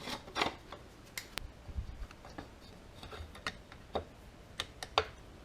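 Irregular small clicks and taps of metal brake-caliper parts being handled and pressed together by hand, with a few sharper knocks near the start and near the end.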